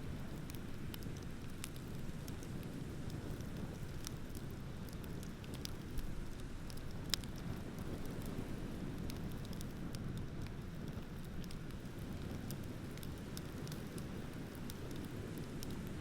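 Wood fire crackling with scattered small snaps and two sharper pops around the middle, over a steady low rumble of ocean surf.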